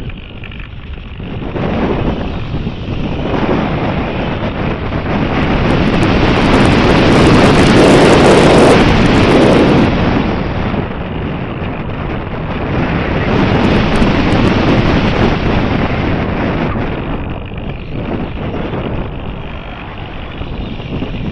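Wind buffeting the microphone, a loud rushing noise that swells in gusts, strongest about eight seconds in and again around fourteen seconds.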